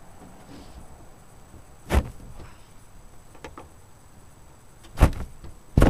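Three sharp knocks: one about two seconds in, then two close together near the end.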